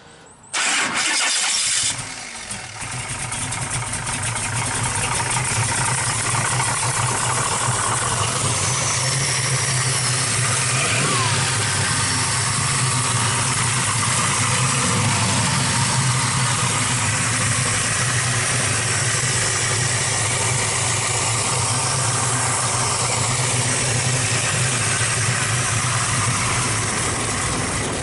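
Merlin 540 big-block V8 started about half a second in, with a loud burst as it fires and catches, then settling into a steady idle that holds to the end.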